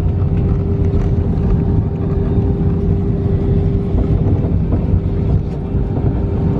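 Airbus A320 cabin noise: a loud, steady rumble of engines and airflow with a steady hum running through it.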